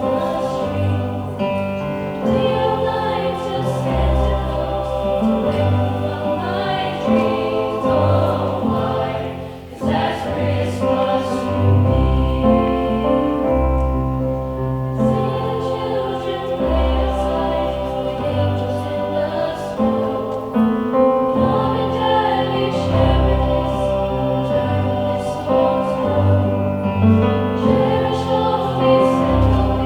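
High school choir singing a Christmas song, with instrumental accompaniment carrying low bass notes.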